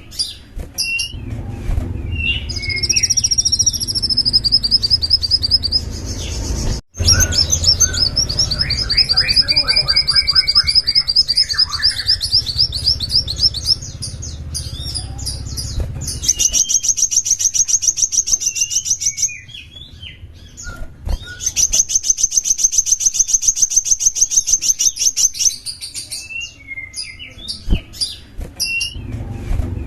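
A small songbird singing long, fast, high-pitched trills of rapidly repeated notes, broken by shorter chirps. A low background rumble sits under the song for about the first half and then stops.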